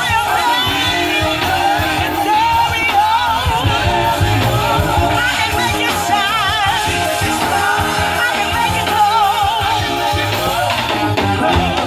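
Live band playing with a singer's voice wavering in vibrato over a steady beat and bass.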